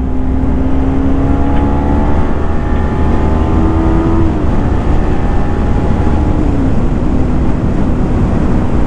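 Kawasaki Ninja 300's parallel-twin engine running while the motorcycle is ridden, its note climbing slightly and then dropping about four seconds in, under heavy wind rumble on the microphone.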